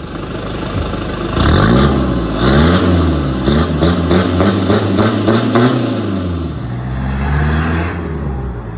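Mazda Bounty's WL-T 2.5-litre four-cylinder turbo-diesel running through a 3-inch side-exit exhaust. It is revved twice, then blipped in a quick string of about eight short revs, and settles back to idle.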